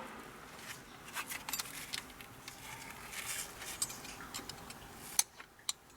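Faint clicking and light scraping of a small tool and key working in a Ford Escape's ignition lock cylinder as the release pin is pushed down, with two sharper clicks near the end.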